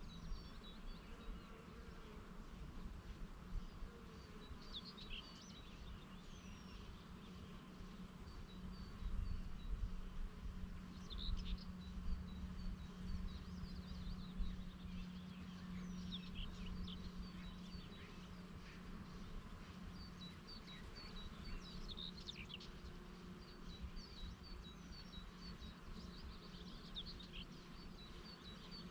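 Bees buzzing in a steady low hum, with small birds chirping and trilling throughout. Light wind rumbles on the microphone, strongest a third of the way in.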